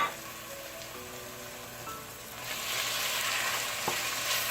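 Cubed chicken breast and red onion sizzling in olive oil in a frying pan, the sizzle growing louder about halfway through, with a couple of light knocks near the end.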